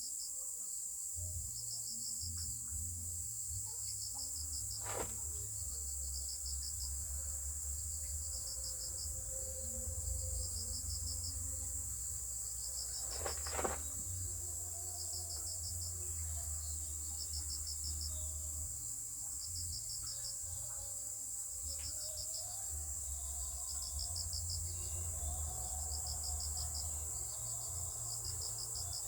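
Insects calling: a steady high trill, with a cricket chirping in short pulsed bursts about every two seconds. Two brief knocks, about five and thirteen seconds in.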